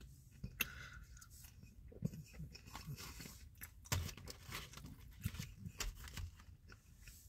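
A person chewing a mouthful of fast food: soft, irregular crunches and mouth clicks, a few louder ones around four and five seconds in.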